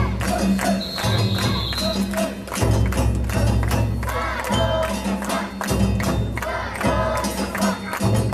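Japanese festival hayashi music playing with a steady, evenly spaced drum beat, and a brief high held note about a second in.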